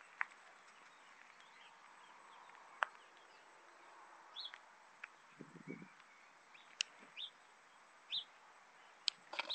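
A few short, high bird chirps, each under half a second, from about four seconds in, over a faint steady outdoor hiss. There are scattered sharp clicks and a brief low sound about halfway through.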